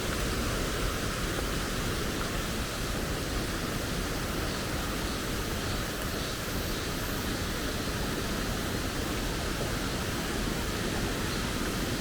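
Steady rushing of a forest stream's running water.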